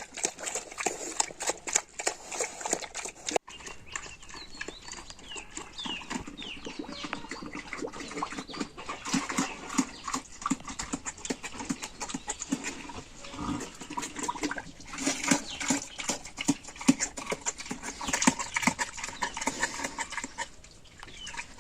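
Pigs grunting and moving about in their pen, with many short rustling and knocking sounds.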